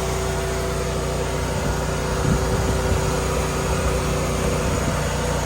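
A steady machine drone with a constant mid-pitched hum, engine-like, and a little rustling about two seconds in.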